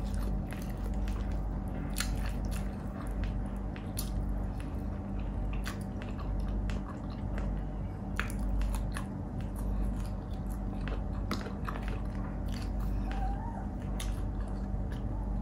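Close-miked mouth sounds of a person eating saucy pork bistek by hand: steady chewing and biting with many sharp, wet clicks scattered throughout, over a faint steady hum.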